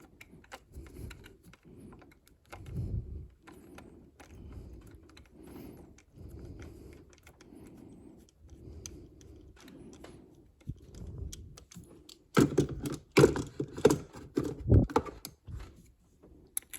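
Small Loctited bolt being backed out of the throttle plate shaft with a 1/4-inch driver handle: soft, repeated turning strokes, then, about twelve seconds in, a louder run of metal clicks and clinks as the tool and bolt work free.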